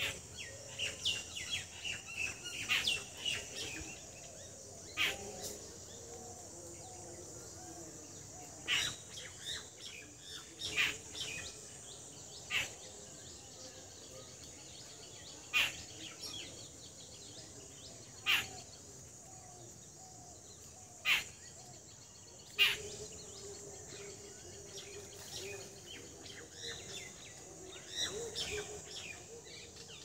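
Birds chirping: a cluster of quick chirps in the first few seconds, then single sharp chirps every few seconds, over a steady high hiss.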